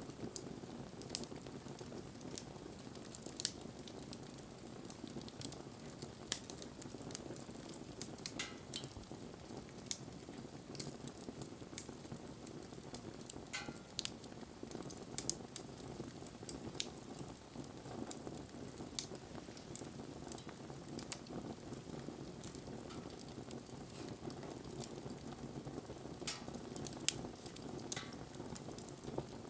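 Wood campfire burning: a steady hiss and rustle of flames, with sharp crackles and pops from the burning wood every few seconds at irregular intervals.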